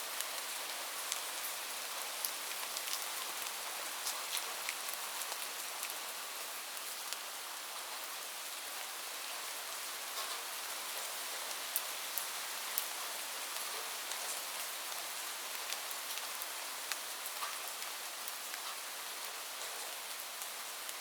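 Steady rain falling on a surface: an even hiss with many distinct drop ticks scattered through it.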